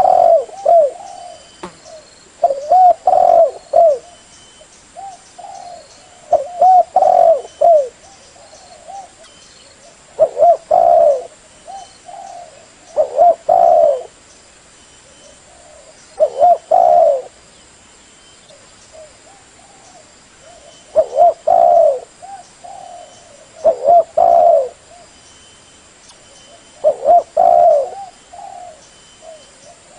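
Spotted dove cooing: repeated phrases of a few low, curved coo notes, one phrase every three to four seconds. This is the call used to lure other spotted doves.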